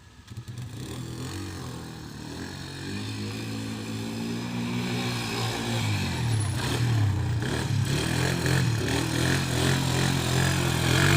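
Quad bike engine running and revving, its pitch rising and falling with the throttle; it starts faint and grows steadily louder.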